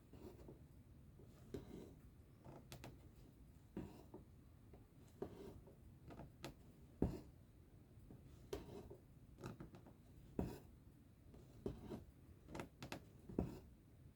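Cross-stitching: a needle popping through cross-stitch fabric and thread drawn through it, heard as irregular soft clicks and brushing sounds about once a second, the loudest about 7 seconds in.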